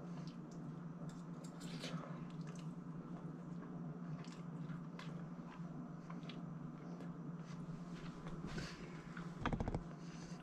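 A person chewing a mouthful of cooked raccoon meat: soft wet squishes and small mouth clicks over a steady low hum, with one brief louder knock near the end.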